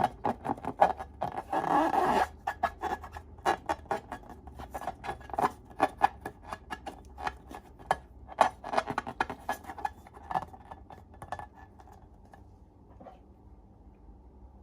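Slime being mixed and squished by hand, a quick run of wet clicks and sticky pops that thins out and stops about 11 seconds in.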